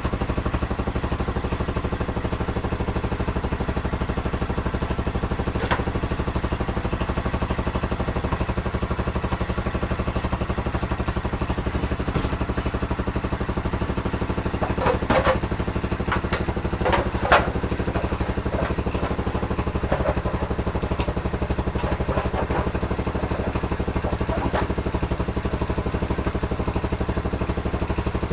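Pit bike engine idling steadily, freshly started after a dead battery was recharged. A few short clanks and knocks sound over it about halfway through.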